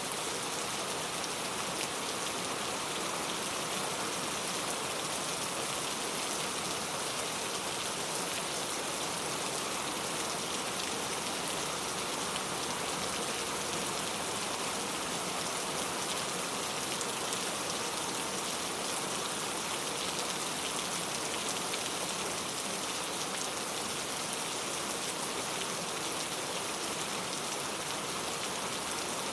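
Steady rain falling, an even patter of many raindrops on surfaces, with no thunder.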